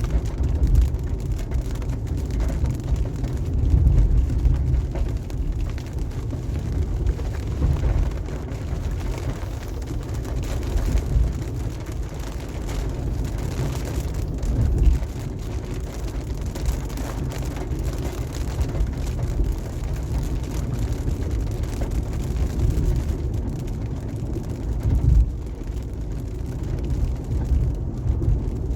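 A car driving on a wet highway: a steady low rumble of tyres and road noise with a light hiss of rain and spray.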